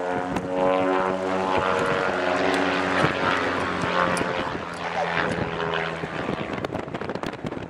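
Van's RV-8 propeller aircraft flying past, its piston engine and propeller droning with the pitch sliding as it goes. The drone fades near the end.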